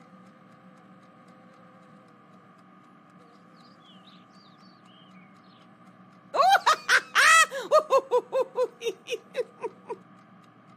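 A high-pitched laughing sound, a rapid run of 'ha-ha' pulses lasting about three and a half seconds and fading out, over a faint steady ambience with a few soft bird-like chirps just before it.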